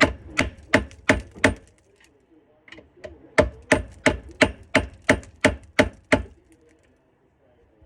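Repeated sharp metal blows, about three a second, struck at rusted-solid garbage disposal fittings to break them loose: a run of five, a pause of about two seconds, then a run of nine.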